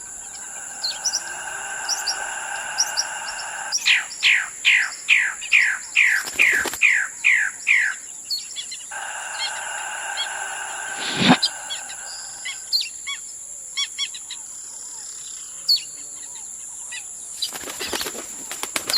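Birds calling: a held buzzing note, then about a second in a run of some ten quick falling whistles, then the buzzing note again and scattered short chirps. A few sharp snaps sound in between.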